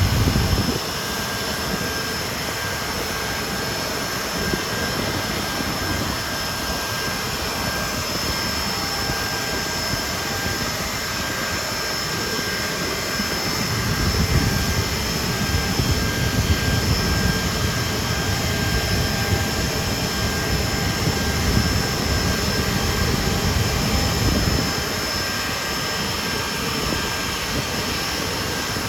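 Hawker Siddeley Nimrod's Rolls-Royce Spey turbofan engines running, a steady high-pitched whine over a low rumble. The rumble grows louder about halfway through and eases again near the end.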